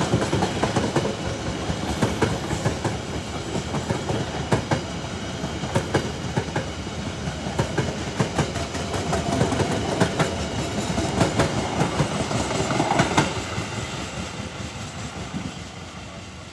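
Passenger train of new-generation carriages passing close by, its wheels clacking rapidly over the rail joints over a steady rumble. The clatter fades out near the end as the last carriages go by.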